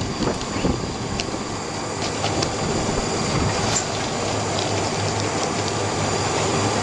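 A fire truck's engine running steadily with a constant low hum, with a few light clicks and clanks scattered over it.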